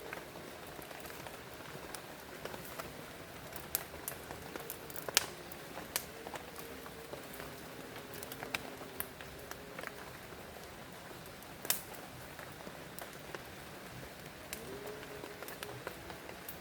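Steady rain falling, with close drops pattering sharply on a surface. Two drips stand out loudest, about five seconds in and about twelve seconds in.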